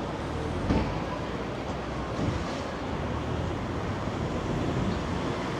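Rainy city street ambience: an even hiss of rain and road traffic, with two short knocks about a second and two seconds in.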